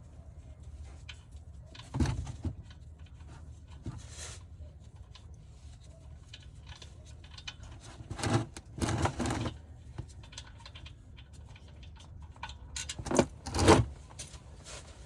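Short bursts of metal clicking and rattling from a ratchet and socket working the oil drain plug loose, heard four times, loudest near the end, over a faint steady low background noise.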